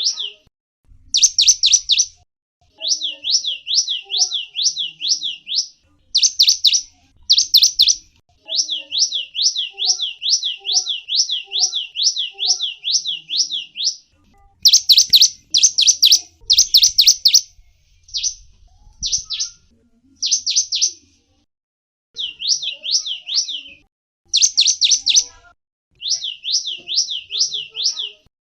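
Gelatik wingko bird calling in fast trains of high, down-slurred chirps, about five a second, in bursts of one to three seconds separated by short pauses; some bursts are louder and sharper than others.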